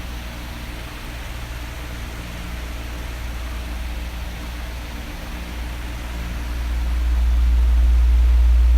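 Electric fan running: a steady rush of air over a low hum. It grows louder about seven seconds in.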